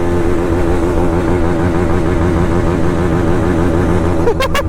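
Motorcycle engine running at a steady, slightly wavering speed while riding. Near the end the revs rise briefly and the exhaust gives several sharp pops, which the rider puts down to the exhaust popping even with its dB killer fitted.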